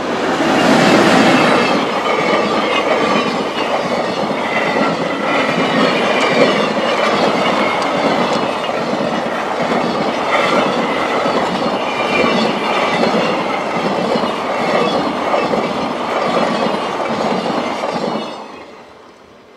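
Freight train of container wagons hauled by an EH500 electric locomotive passing at speed, the wheels clattering in a steady rhythm over the rail joints. The sound fades quickly near the end as the last wagon goes by.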